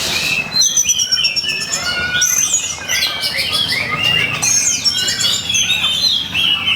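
Oriental magpie-robin (kacer) singing a fast, unbroken song of varied whistles, slurred notes and chirps, the agitated fighting-mode song of a male in full voice.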